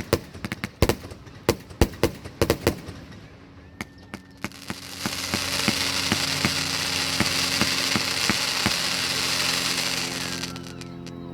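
Fireworks going off: a quick run of sharp bangs and cracks for about the first three seconds, then after a short lull a loud steady hiss lasting about six seconds before fading out near the end.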